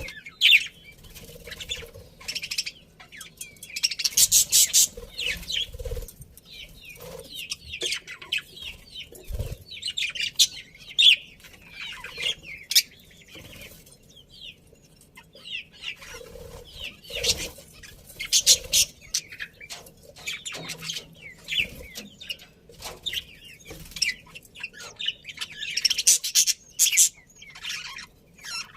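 A flock of budgerigars chirping and chattering with high, rapid, irregular chirps, in louder clusters every few seconds.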